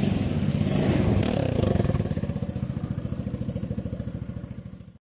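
Chinese scooter engine of a Vyatka Electron motor scooter running with an even puttering beat, loudest in the first couple of seconds and then gradually fading out.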